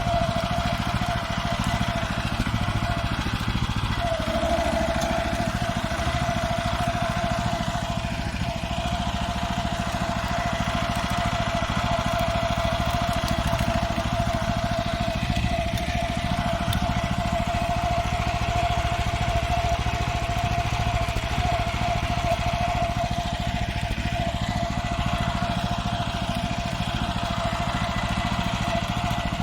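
Farmer 1511 walk-behind tractor's engine running steadily while the machine is ridden, a constant high whine over the engine note that falters briefly about three seconds in.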